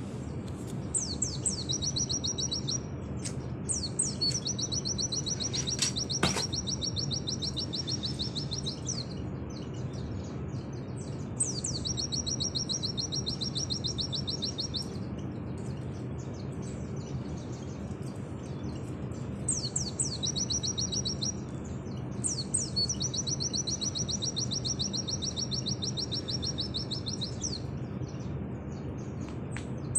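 A white-eye (pleci) singing its rapid 'nembak' song. It is a series of long, fast, high trills of evenly repeated notes, each lasting from one to about five seconds, with short pauses between them, over a steady low hum.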